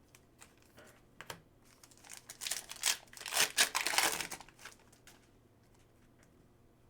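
A trading-card pack's wrapper being torn open and crinkled: a few light clicks, then a dense run of crackling from about two seconds in that dies away after about five seconds.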